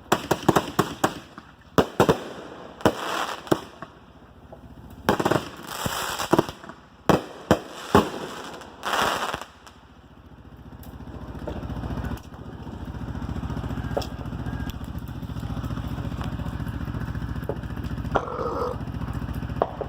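Old fireworks going off: a quick string of sharp bangs and crackling pops with short hissing bursts over the first half. From about ten seconds in, a steady engine hum rises and keeps running.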